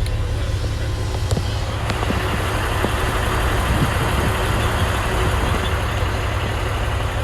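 Semi truck idling: a steady low rumble with a broad hiss over it.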